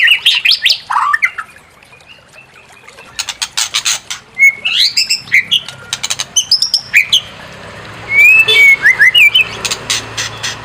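White-rumped shama singing: loud whistled phrases that slide up and down, broken by rapid harsh rattling chatters, in several bursts with a short lull about two seconds in. This is a provocation song for stirring a captive shama into full song.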